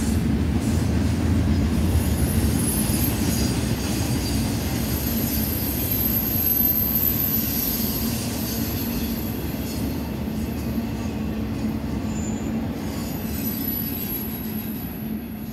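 BNSF intermodal freight train's double-stack and trailer cars rolling past: a steady rumble of steel wheels on rail, with thin high-pitched wheel squeal coming and going. The sound eases slightly near the end as the last cars pass.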